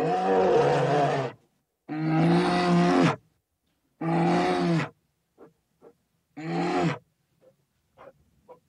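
Brown bears growling as they wrestle: four loud, pitched growls, each lasting about a second, spaced roughly two seconds apart, with a few faint clicks after the last one.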